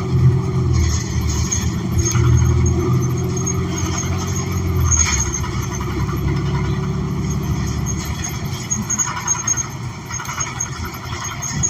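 Cummins Westport ISL G natural-gas engine and Allison transmission of a New Flyer XN40 bus, heard from inside the cabin while the bus is moving. The engine drone and a steady whine are strong at first, then ease off about five seconds in.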